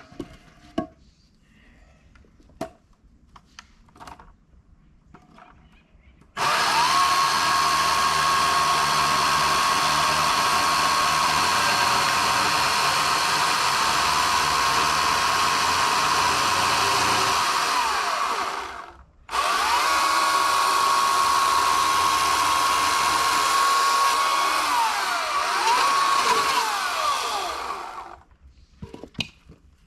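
EGO CS2005 20-inch battery-powered electric chainsaw cutting firewood: after a few light knocks, the motor runs at a steady high whine for about twelve seconds, stops briefly, then runs again for about nine seconds, its pitch sagging near the end of each run.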